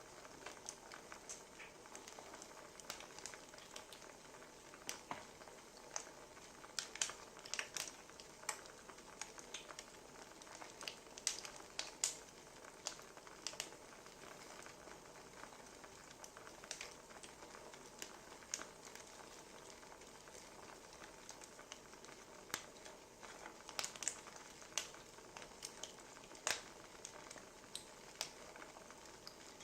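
Wood fire crackling: irregular sharp pops and snaps over a soft steady hiss, with small clusters of louder pops now and then.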